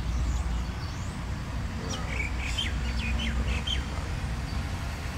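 A small bird chirping: a quick run of short, falling chirps about two seconds in, over a steady low background rumble.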